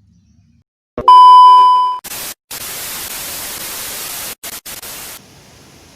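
Edited-in sound effect: a loud electronic beep tone about a second in, fading out, followed by harsh white-noise static that cuts out briefly a few times and stops suddenly after about five seconds.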